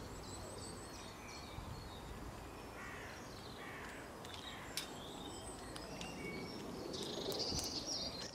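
Faint birdsong: small birds chirping and calling in short high notes over quiet outdoor background noise, with one sharp click about five seconds in.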